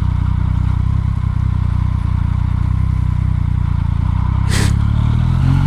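Motorcycle engine running steadily at low speed, heard through a microphone inside the rider's helmet, with a brief hiss about four and a half seconds in.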